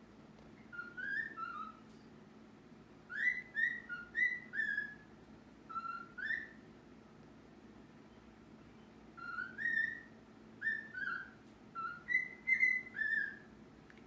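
Pet bird whistling a string of short notes, each sliding up or down, in three bursts with pauses between.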